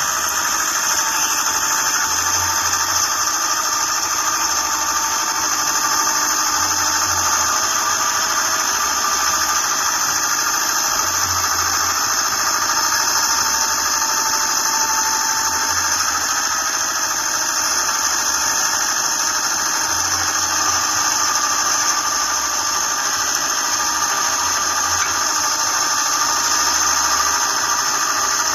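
Homemade excavator running: a steady engine with a high whine over it and a low pulse about every two seconds.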